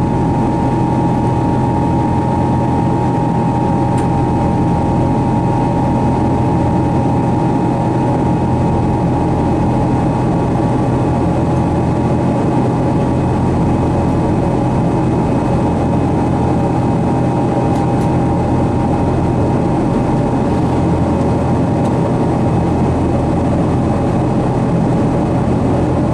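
Steady cabin roar of a Boeing 777-200 under way, with a constant engine hum running through it, heard from inside the front cabin.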